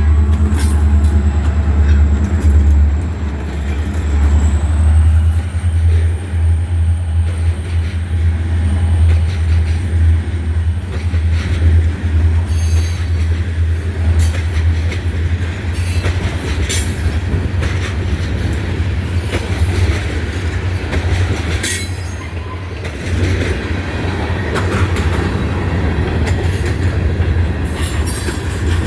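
Freight train passing: a heavy steady rumble, with many wheel clicks over rail joints and a thin high wheel squeal over the first dozen seconds.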